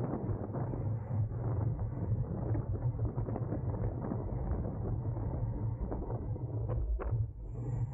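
Steady wind rush and road noise from a road bike ridden at race speed in a pack, heavy at the low end. A couple of sharp clicks come about seven seconds in.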